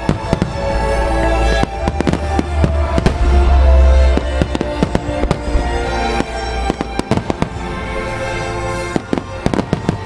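Aerial fireworks shells bursting in rapid succession, many sharp bangs over a dense low rumble that is heaviest from about two to four and a half seconds in. Music plays under the bursts.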